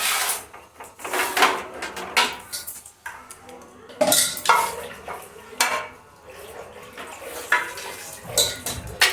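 Dishes, containers and utensils clinking and clattering as they are handled during fridge cleaning, in irregular sharp knocks and clinks.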